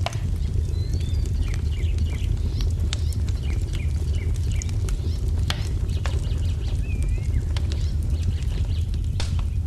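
Wood fire burning with a steady low rumble and scattered sharp crackles and pops, while small birds chirp and twitter over it.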